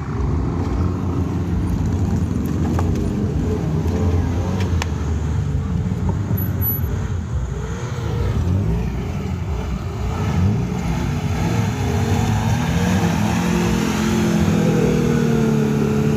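Off-road vehicle's engine running under load, its revs wavering up and down, then holding steady for the last couple of seconds.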